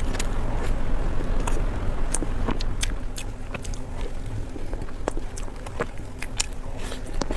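A person chewing food close to the microphone, with irregular sharp wet mouth clicks and smacks over a low steady hum.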